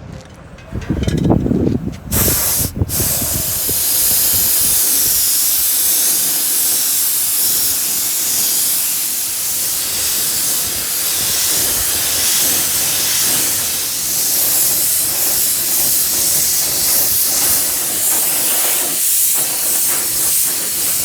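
Steady spray hiss of paint being sprayed onto the wheel, starting about two seconds in after a brief clatter.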